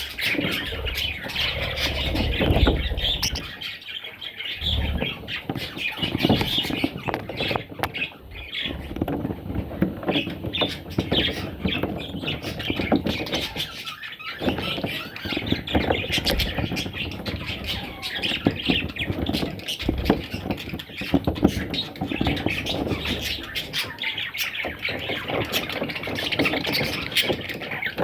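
Budgerigars, young chicks among them, squawking and chirping in a dense, continuous chatter, with a few low thumps.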